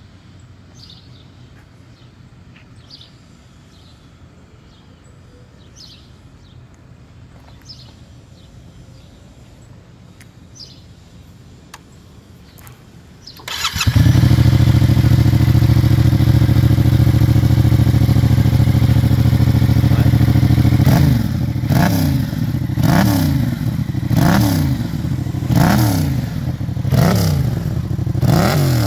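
Quiet background with faint bird chirps. About halfway in, a Yamaha MT-07's parallel-twin engine starts through a Hurricane GP Competition sport exhaust and runs loud and steady at idle. From about two-thirds in it is revved repeatedly, the pitch rising and falling about once a second.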